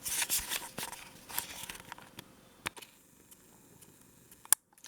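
Handling noise on the microphone: rustling and crackling clicks as the recording device is turned around in the hand, busiest in the first couple of seconds, then fainter with one sharp click near the end.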